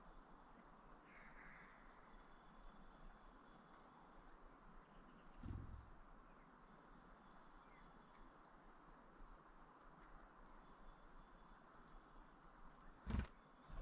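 Small birds chirping faintly in three short runs of high, thin calls a few seconds apart, over a soft steady hiss. Two dull low thumps: one about five seconds in and a louder one near the end.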